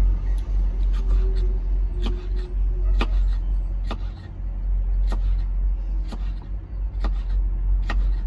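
Kitchen knife dicing a bell pepper, chopping down onto a cutting board about once a second, over a steady low rumble.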